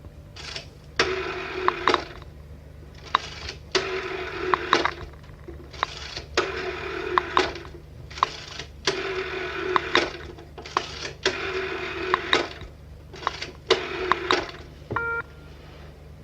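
An old telephone's mechanical bell ringing in about six rattling rings of a second and a half to two seconds each, with short gaps between them. A click and a brief tone follow near the end.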